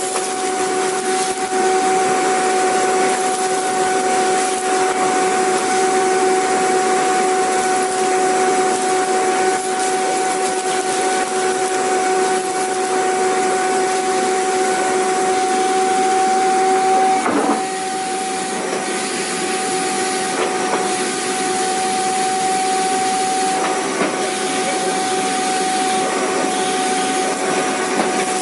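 Vacuum cleaner running steadily: a constant motor whine over the rushing hiss of air. About two-thirds of the way through it dips slightly in loudness, and the lower tone fades.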